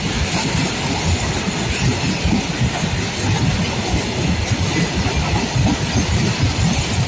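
Train rolling past, its wagon wheels running steadily over the rails with a dense, continuous rumble.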